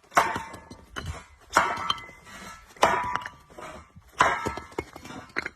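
A series of sharp knocks, four loud ones about a second and a quarter apart, each ringing briefly as it dies away, with smaller clicks in between.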